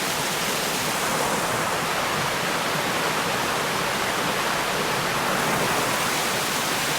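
Waterfall and creek water rushing steadily over rocks: an even, unbroken hiss.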